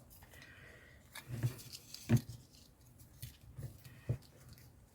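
Small craft items being handled and rummaged through on a desk: faint rustling broken by a handful of light knocks and taps, the sharpest about two seconds in.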